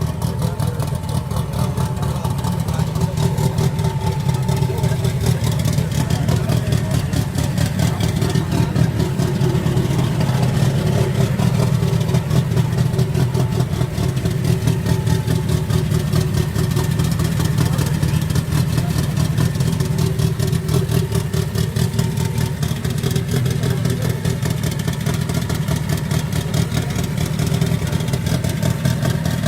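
Car engine idling steadily close by, a loud, even low rumble of rapid firing pulses.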